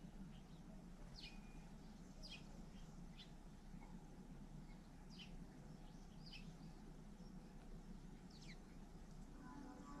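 Faint, short bird chirps, each a quick downward sweep, heard about eight times at irregular intervals over a low, steady background rumble.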